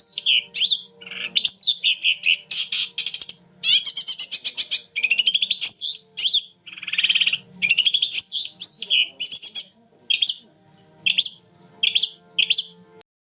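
Long-tailed shrike (cendet) singing in full voice: a busy run of rapid trills, chatters and sweeping whistled notes in quick bursts, cutting off suddenly near the end.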